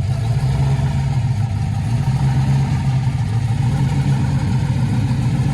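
Classic car's six-cylinder engine idling steadily, with a low, even exhaust note.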